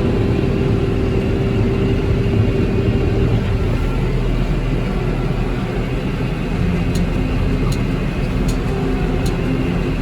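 A vehicle engine running steadily, with a low rumble, under background music with a light, evenly spaced tick in the second half.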